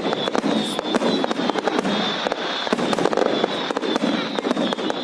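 Fireworks display: a dense, continuous run of rapid bangs and crackling pops.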